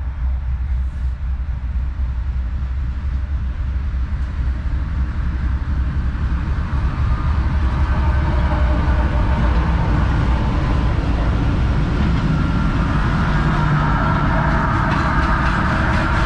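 CSX freight train rolling past: a low, heavy rumble that grows louder. Near the end, the rhythmic clickety-clack of wheels over rail joints sets in.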